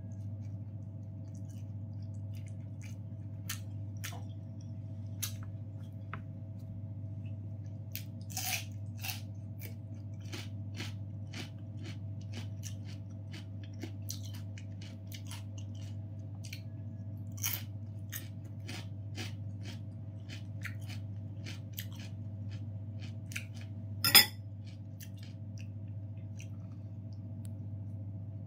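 A person chewing and eating close to the microphone, with many small mouth clicks scattered throughout. One sharper knock comes about 24 seconds in. A steady low hum runs underneath.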